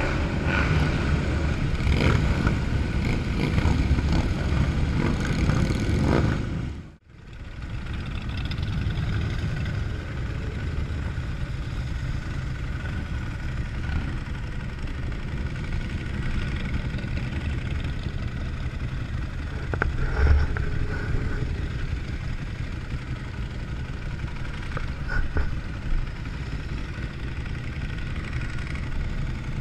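Motorcycles running on the road in a group ride, a steady engine and road noise. It drops out suddenly for a moment about seven seconds in, then carries on.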